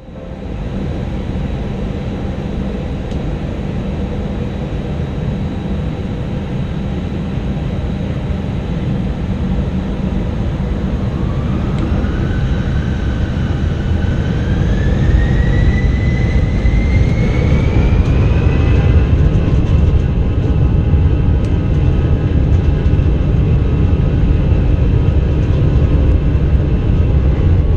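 Airbus A321 jet engines heard from the cabin, spooling up: a steady rumble with a whine that rises in pitch in steps from about eleven seconds in, after which the noise is louder and holds steady, as with power being set for the take-off roll.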